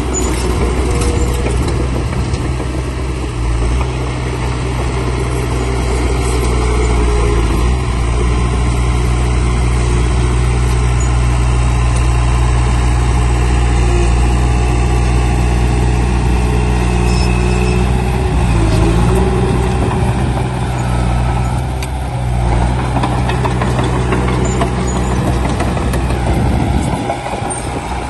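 Heavy diesel engine of construction machinery running steadily, a low drone that rises and falls slightly with load; about a second before the end the lowest rumble briefly drops away.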